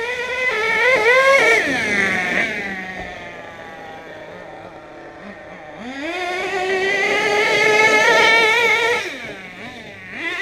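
HPI Savage RC monster truck's nitro engine revving up in two long runs, its pitch rising and holding high, then dropping back to a steady idle in between, with a short blip near the end.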